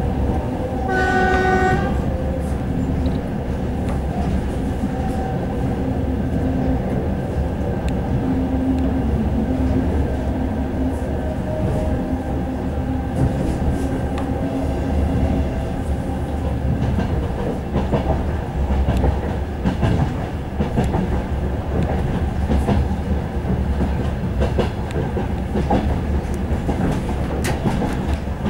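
Suburban passenger train running along the line, heard from inside a carriage: a steady rumble of wheels on rail with the clickety-clack of rail joints. A short train horn blast sounds about a second in.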